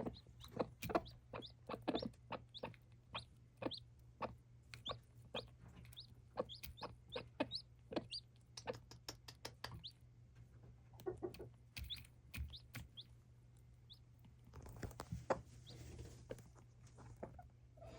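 A mother hen clucking repeatedly in short calls while her chick peeps in quick, high, rising chirps: a hen calling her chick to food. There is a brief rustling stretch a few seconds before the end.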